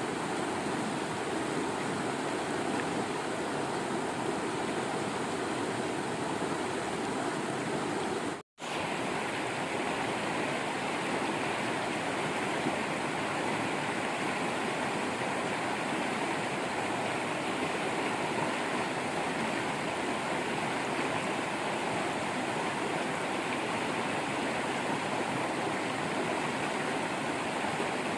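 Waterfall water running steadily. The sound cuts out completely for a split second a little over eight seconds in, then resumes with a slightly brighter tone.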